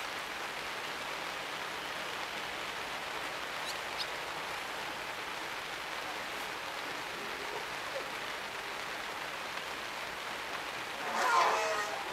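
Steady hiss of rain falling, with a brief pitched call near the end.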